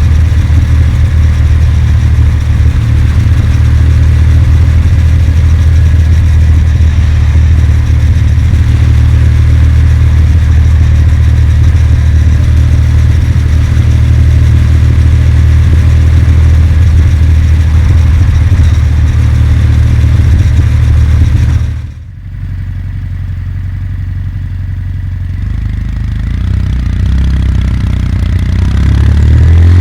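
Kawasaki W800's air-cooled parallel-twin engine running steadily on the move. About 22 seconds in, the engine sound drops off sharply as the throttle is shut, then builds back up over the last few seconds.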